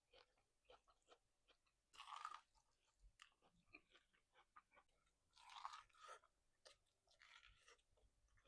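Faint close-miked chewing of food, with many small wet clicks and louder crunching bites about two seconds in, in the middle and near the end.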